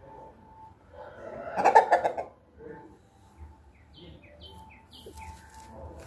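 A loud, harsh, rasping burst about two seconds in, then a quick run of about six short falling chirps from a small bird.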